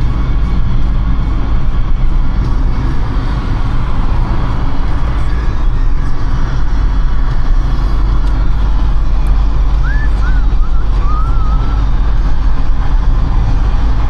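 Steady road and tyre rumble of a car driving at speed on a fast city road. A few short gliding high tones come about ten seconds in.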